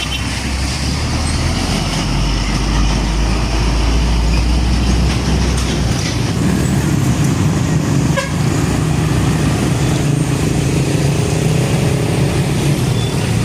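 Heavy trucks' diesel engines running as they pass in busy road traffic, with a steady deep engine note that moves up to a somewhat higher pitch about six seconds in.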